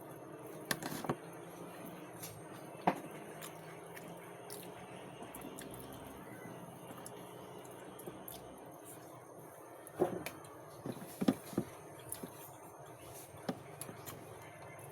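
Eating sounds: scattered sharp clicks of a utensil against a plate or bowl, clustered about ten to twelve seconds in, with soft chewing between them, over a low steady background hum.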